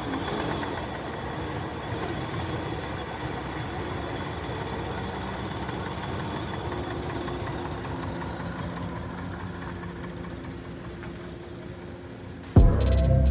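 Audi 3.0 TFSI supercharged V6 (CREC) in a 2016 A7 idling steadily just after being restarted. It is running with carbon-cleaner solution in its intake, on an engine with known misfires. Near the end a much louder, different sound cuts in abruptly.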